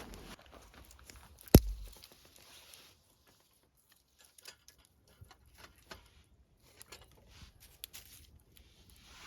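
A single sharp click about one and a half seconds in, followed by scattered faint clicks and ticks.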